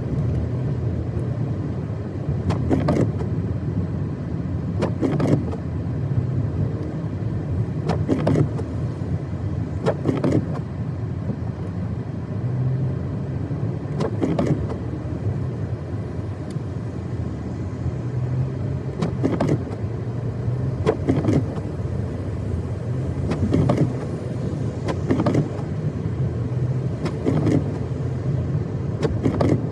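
Car cabin during a drive in heavy snow: steady engine and road rumble, with a windshield wiper sweep about every two seconds.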